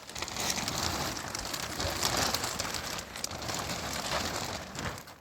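Rain falling heavily in a dense, steady hiss.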